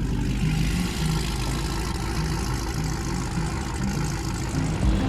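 Car engine idling with a steady, low, uneven rumble.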